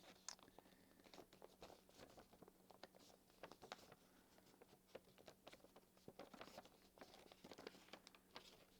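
Faint, scattered crinkles and light ticks of a paper sheet being folded and creased by hand as the nose of a paper airplane is folded over.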